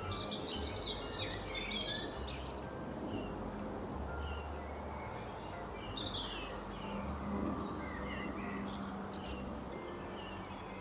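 Several birds chirping and calling in short, high notes, densest in the first two seconds and more scattered after, over a steady outdoor background noise.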